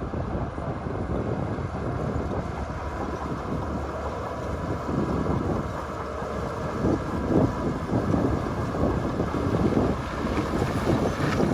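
Heavy diesel earthmoving machinery running steadily, with wind buffeting the microphone; the noise grows somewhat louder about halfway through.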